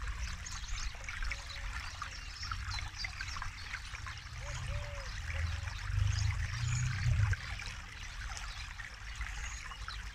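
River water flowing and trickling steadily, with a deeper low rumble that swells for a few seconds in the middle.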